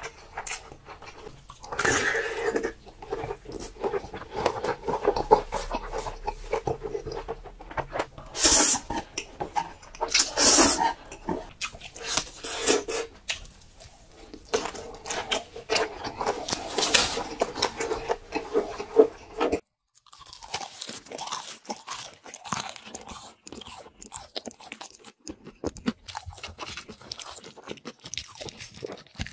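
Close-miked eating sounds: chewing and loud crunching of crispy fried food. The sound breaks off suddenly about two-thirds through and resumes as a different, lighter crunching and chewing.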